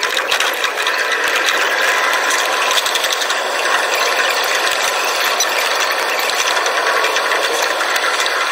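Nishitetsu train's running sound, heard from the front of the train and played back ten times fast, so that wheel and rail noise becomes a dense, rapid mechanical clatter like a ratchet.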